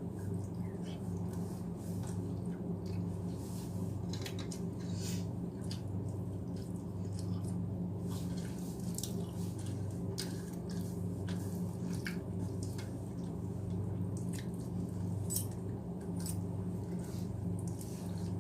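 Close-miked eating: irregular wet chewing and mouth clicks from someone eating rice and mashed potato, over a steady low hum.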